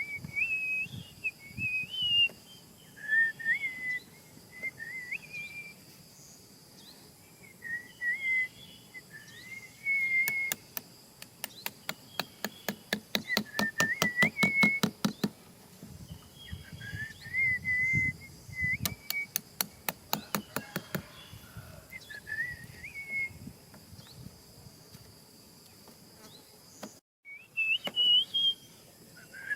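Short, wavering bird-like whistled phrases, repeated every few seconds. Twice, partway through, a rapid run of sharp clicks comes at about five a second.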